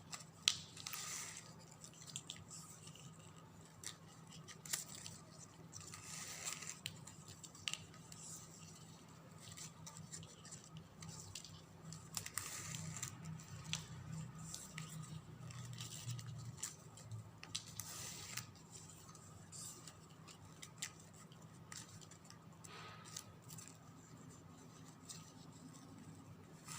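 Faint rustling of ribbon being tucked and threaded through the woven folds by hand, with small clicks and soft crinkles at irregular moments.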